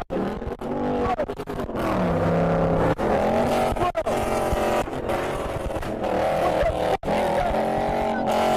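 Car engines revving hard, the pitch rising and falling with each throttle blip, broken by several abrupt cuts.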